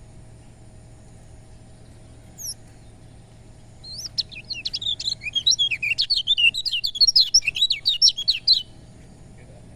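A kecial kuning (white-eye) gives one short chirp, then a fast, loud song of many quick high notes for about four and a half seconds that stops abruptly.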